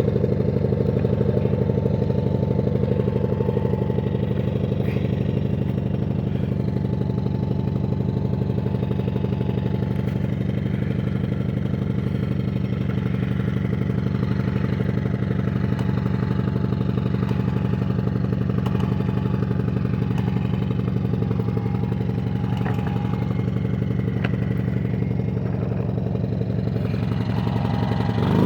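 Small Ryobi gasoline engine running steadily at an even speed after a cold start in the snow.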